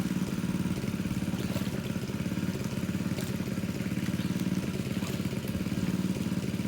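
Small engine driving a water pump, running steadily at an even speed to pump water out of a pond.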